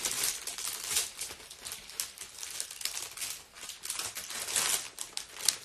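Irregular rustling and crinkling, a dense run of crackles close to the microphone.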